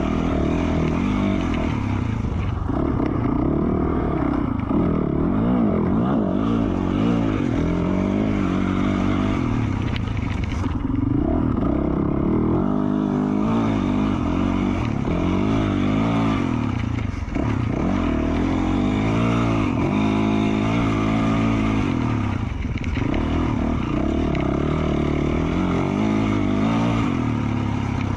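2020 Yamaha YZ450F's single-cylinder four-stroke engine with an FMF Q4 slip-on exhaust, revving up and down over and over as the throttle is opened and rolled off while riding single track.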